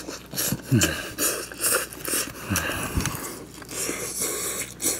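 A person chewing a mouthful of octopus fried rice close to the microphone: wet mouth clicks and smacks throughout, with two brief, low, falling voice sounds about a second in and about two and a half seconds in.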